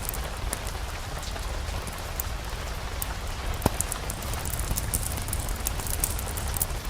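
Steady rain falling, with a dense patter of drops over a low rumble, and one sharper pop about halfway through.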